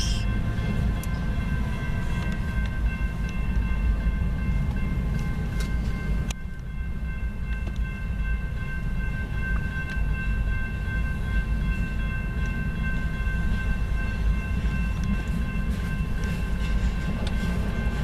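Double-stack container freight train rolling past, a steady low rumble of wheels and cars with several steady high-pitched tones over it.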